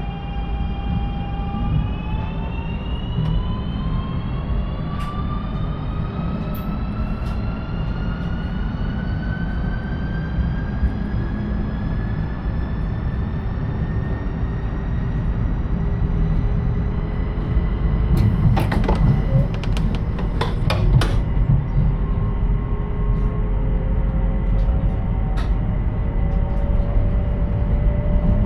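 Electric train accelerating, its traction-motor whine rising steadily in pitch over a low running rumble. A quick cluster of sharp clicks comes about two-thirds of the way through, and another whine starts climbing near the end.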